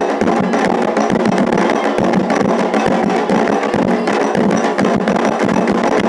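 Candomblé ceremonial drumming: hand drums and percussion playing a dense, fast, unbroken rhythm as part of loud continuous ritual music.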